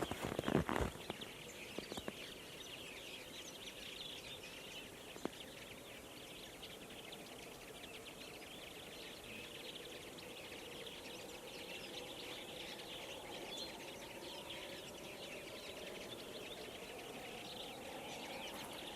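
Flock of common linnets and European greenfinches singing together: dense, continuous twittering from many birds at once. There are a few sharp knocks in the first second, and a faint low drone slowly rises in pitch through the second half.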